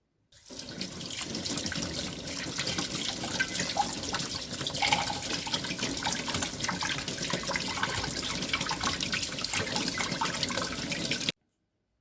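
Water running from a kitchen tap into a sink in a steady stream, cut off abruptly near the end.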